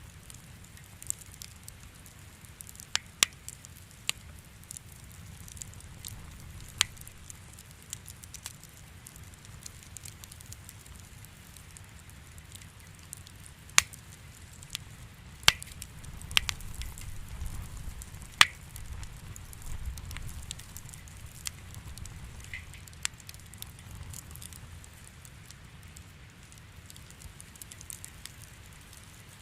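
Fireplace fire crackling: irregular sharp pops and snaps over a low steady rumble, which swells from about 16 to 21 seconds in.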